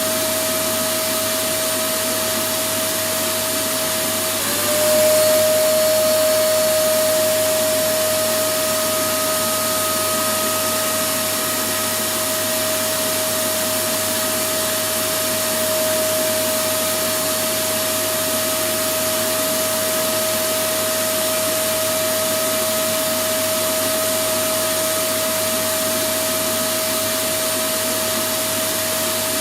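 Electric vacuum cleaner motor running continuously: a steady rush of air with a constant whine. About four seconds in, the whine dips slightly and the sound briefly gets a little louder, then settles back to the same steady running.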